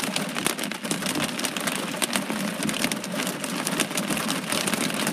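Heavy downpour of rain: a steady hiss dense with the spatter of drops striking a hard surface.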